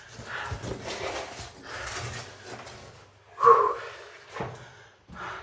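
Irregular scraping and scuffing of clothing and gear against rock as someone crawls through a narrow tunnel, with knocks and one short, loud grunt-like sound about three and a half seconds in.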